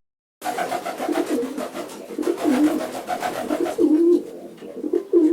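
Pigeons cooing in a small room: repeated low, wavering coos that start about half a second in and go on throughout.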